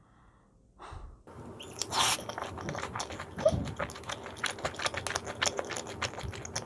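Close-up chewing of crispy, sauce-coated boneless fried chicken (Supreme yangnyeom chicken): a fast run of wet crackles and clicks that starts about a second in.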